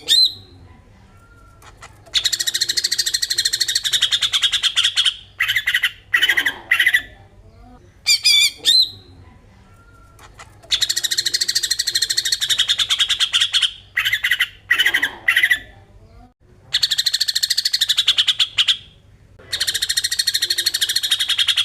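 Cucak ijo (green leafbird) singing its besetan song: long, rapid, buzzy rattling phrases of two to four seconds each, four of them, broken by short chirps and brief pauses.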